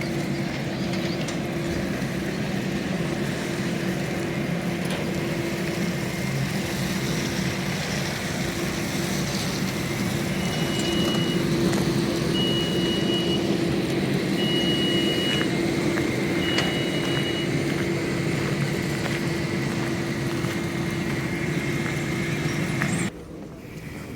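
Steady mechanical hum and rush of air from a parked Boeing 737-800's systems, with a constant low tone. Four short, high beeps about two seconds apart sound midway. The hum drops away abruptly near the end.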